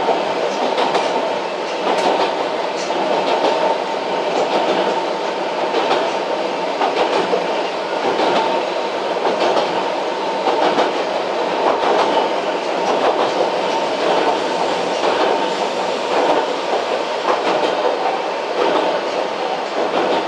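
Yokkaichi Asunarou Railway narrow-gauge (762 mm) electric train running between stations, heard from inside the car: a steady running noise with the wheels clicking over rail joints at irregular intervals.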